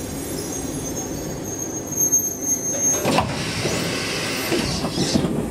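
Saltsjöbanan C10 electric commuter train slowing to a stop, heard from inside the carriage: a running rumble with a steady high squeal from the wheels or brakes, then bursts of hissing from about three seconds in.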